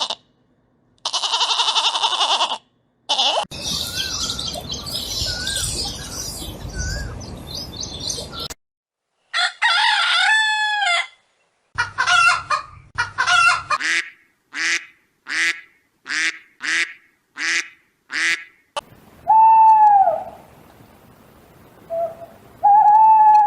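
A run of short spliced recordings of domestic chicken calls: clucking and crowing, a long pitched call, then a string of about a dozen short calls about two a second, and near the end two arching calls that rise and fall.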